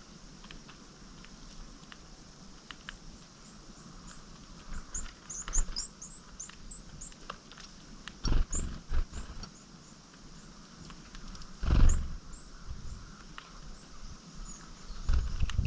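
Small songbirds, tits and sparrows, giving many short, high, thin call notes, with scattered light ticks. A few loud low thumps come about eight seconds in, about twelve seconds in, and at the very end.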